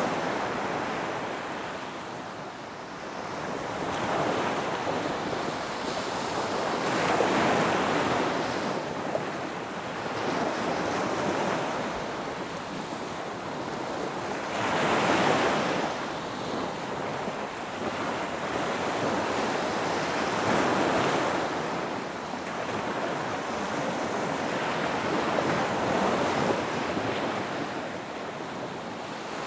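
Ocean surf breaking on a beach: a continuous rushing wash of water that swells into four louder surges several seconds apart as waves come in.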